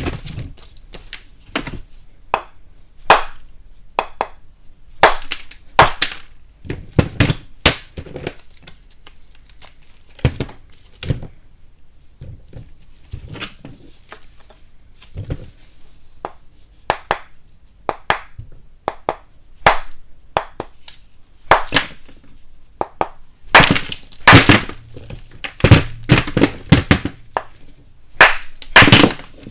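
Lumps of chalk being cracked and broken apart close to the microphone: irregular sharp cracks and snaps, some in quick clusters, with crumbling between them.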